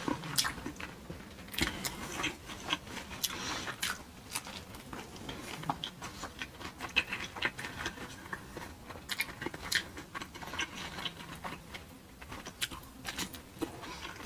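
A person chewing crunchy food close to the microphone, with irregular crisp crunches and wet mouth clicks.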